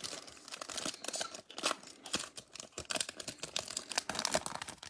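Foil wrapper of a Bowman Platinum trading-card pack crinkling and tearing as it is worked open by hand, a run of small irregular crackles.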